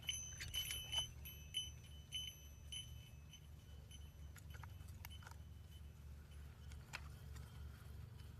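Small bite-alarm bell on a fishing rod tip jingling in a quick run of light dings as a fish takes the bait, followed by a few faint clicks.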